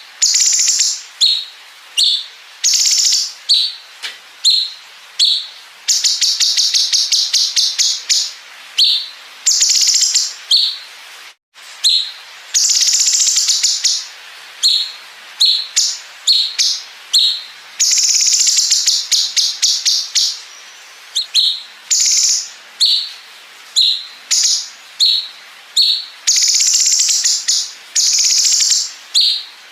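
Cucak cungkok singing: repeated short, high calls broken up by several long, fast rattling 'bren' trills of about two seconds each.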